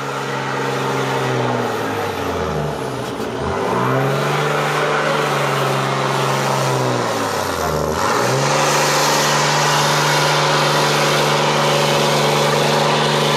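Diesel pickup engine at full load pulling a weight-transfer sled, its pitch holding steady with two sharp dips where the revs fall and climb back, around three and eight seconds in; the sound gets louder in the second half.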